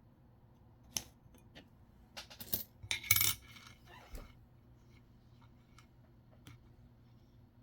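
Nickels clinking together as they are handled and set down: a scatter of short metallic clicks, busiest from about two to four seconds in.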